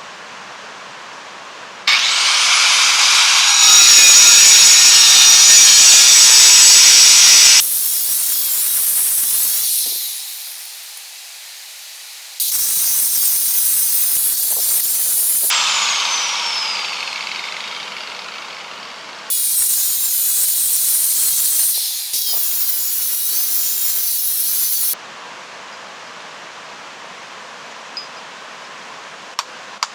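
Angle grinder cutting river stone in several runs of a few seconds each: a high, hissing cut with the disc spinning up at the start and a falling whine as it winds down between cuts.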